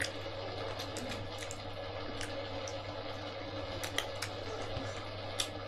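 Scattered light clicks and clinks of tableware handled during a meal, at irregular intervals over a steady low hum.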